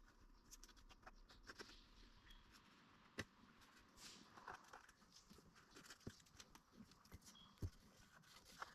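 Near silence, broken only by a few faint, scattered clicks and light taps, the sharpest about three seconds in.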